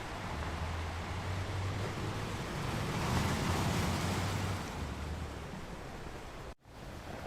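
Rushing water, with a swell that grows louder about three seconds in and then eases off. The sound cuts out abruptly for an instant near the end.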